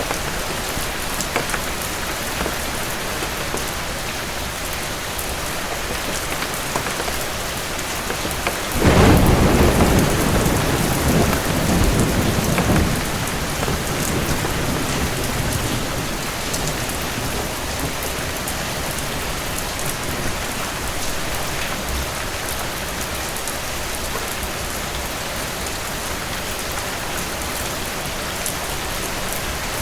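Steady rainfall, with a sudden clap of thunder about a third of the way in that rumbles and fades over a few seconds.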